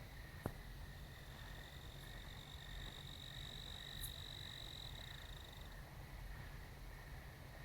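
Night chorus: a high, steady trill starts about a second in and lasts about five seconds, over a continuous lower, pulsing chorus, with a faint click near the start.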